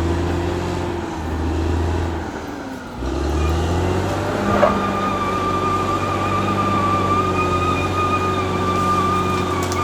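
Caterpillar D6R XL bulldozer's diesel engine running, dipping about two seconds in and picking back up about a second later. A single clank comes about four and a half seconds in, followed by a steady high whine over the engine.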